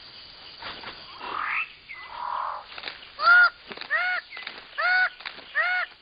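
Bird of paradise calls. A few scattered squeaky notes come first, then from about three seconds in a run of four loud calls, each rising and then falling in pitch, under a second apart.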